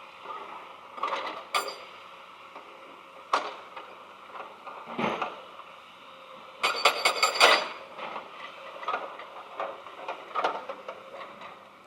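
Remote-control toy backhoe loader working: small gear motors whir in short spurts, with plastic clatter and several sharp knocks. The busiest run of clicking and whirring comes about two-thirds of the way through.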